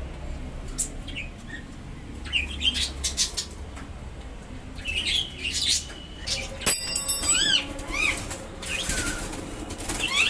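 Bulbul's wings flapping in bursts of fluttering inside a cage, mixed with short, repeated chirping calls.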